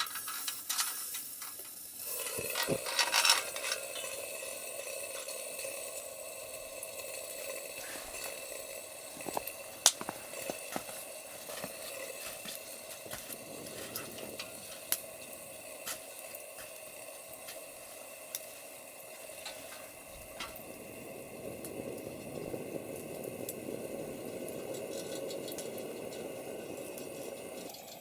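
Wood campfire burning with a steady hiss and scattered sharp crackles and pops, a cluster of louder ones about three seconds in and the sharpest about ten seconds in.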